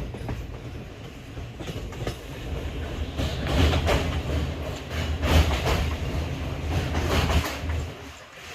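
Passenger train running on the rails: a steady low rumble with the wheels clattering over rail joints, louder in the middle stretch and easing off near the end.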